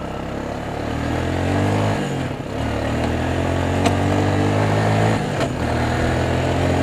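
Four-wheeler (ATV) engine running under throttle while crawling over a rocky trail. The revs rise about a second in, then hold steady, with two brief dips. A couple of sharp knocks come through partway along.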